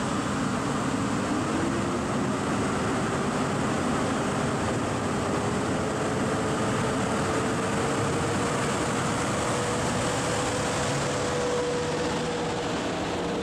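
Train running through the station and gathering speed: a steady rumbling noise with a motor whine that rises in pitch over several seconds and then holds level.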